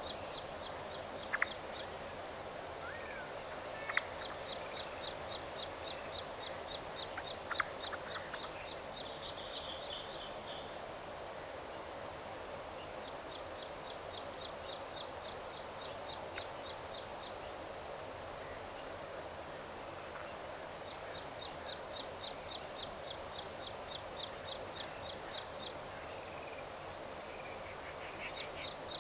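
Monsoon-evening chorus of crickets and other insects in a paddy field: a steady, evenly pulsing high buzz, with bouts of rapid high ticking that last a few seconds and come back four or five times. A few short bird chirps sound in the first eight seconds.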